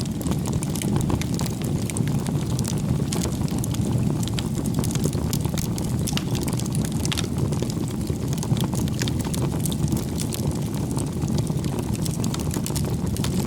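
Bonfire of firewood burning: a steady low rumble of flames with frequent small crackles and pops.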